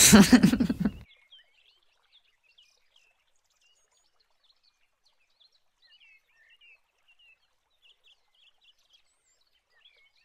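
Faint small birds chirping and twittering in short, scattered calls. A loud burst of sound in the first second cuts off suddenly.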